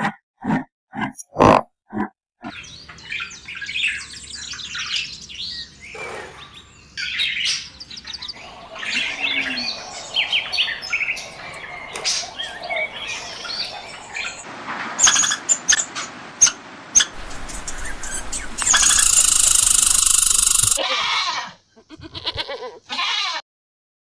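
A run of short grunts from an African buffalo herd, then a long stretch of birds chirping and calling. Near the end, a loud steady rushing noise lasts about two seconds.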